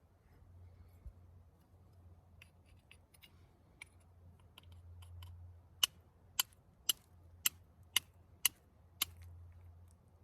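A run of seven sharp clicks, evenly spaced about two a second, after some fainter scattered ticks.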